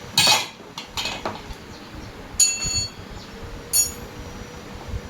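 Metal objects being handled during a repair: two short scraping knocks, then two ringing metallic clinks about a second and a half apart.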